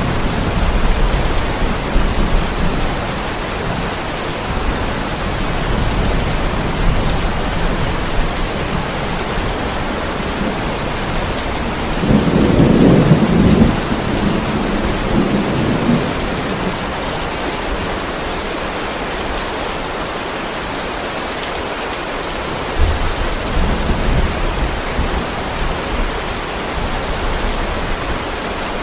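Heavy rain falling with a steady hiss, with deep rolling thunder rumbles: one at the start, a louder one about twelve seconds in, and another near twenty-three seconds.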